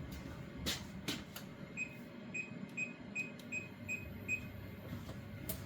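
Electronic kitchen timer beeping seven times in quick succession, a short high beep about every half second, as it is set for the dumplings' cooking time. A few light clicks come before and after the beeps.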